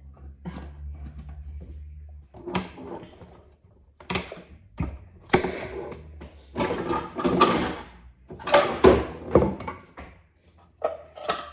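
Kitchen handling noises: a run of irregular knocks and clatters, as of doors, drawers and utensils being moved. A steady low hum stops about two seconds in.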